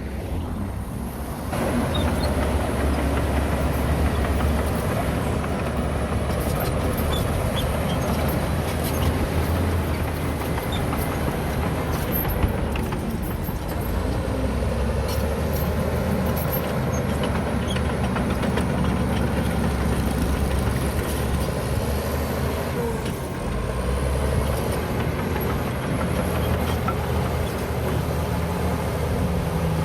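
Heavy diesel earthmoving machinery running steadily under load, getting louder about a second and a half in. Scattered metallic clanks sound over the engine, with a faint high whine that rises and falls.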